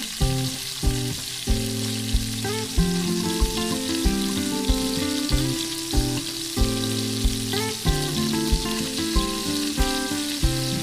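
Pieces of bird frying and sizzling in oil with onion, spices and tomato, a steady hiss as the meat cooks in the curry base. Background music with held notes and a steady beat plays over it.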